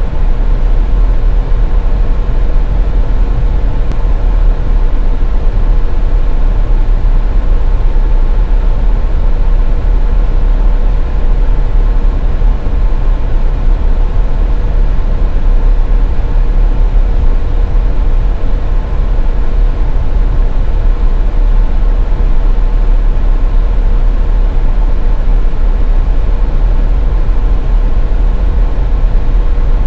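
Car driving on a snowy highway: a steady, loud, low road-and-engine rumble with a faint constant hum, unchanging throughout.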